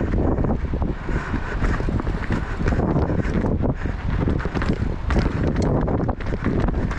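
Strong wind buffeting the microphone: a loud, uneven rumble of gusts.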